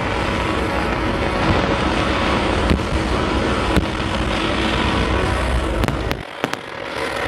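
Fireworks display: a dense barrage of bangs and crackles over loud soundtrack music, dipping briefly about six seconds in.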